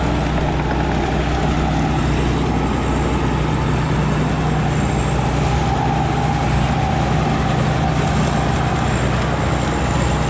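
Rice combine harvester running steadily, its engine and threshing machinery holding an even, unbroken drone with a steady whine above it.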